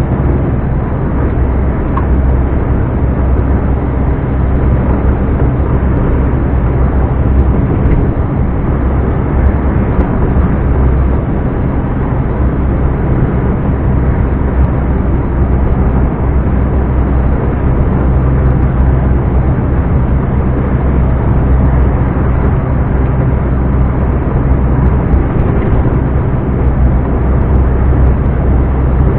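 Scania R420 truck's turbocharged 12-litre inline-six diesel running steadily under way, a deep even drone.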